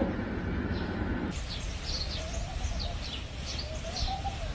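Birds chirping with many quick, high, falling notes, starting about a second in, over which a low cooing call rises and falls twice.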